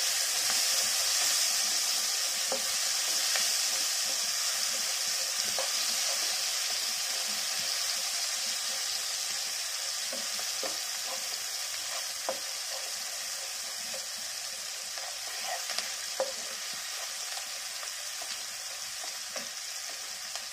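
Spice masala and red chilli powder sizzling in hot oil in a pan as it is stirred and sautéed, the sizzle slowly growing quieter. Occasional light scrapes and taps of the stirring spoon on the pan.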